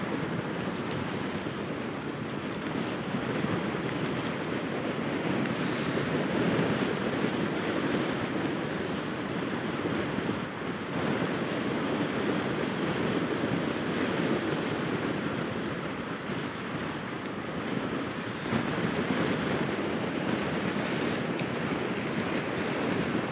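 Strong wind buffeting the microphone: a steady, gusting rush of noise that swells and eases, with no horn sounding.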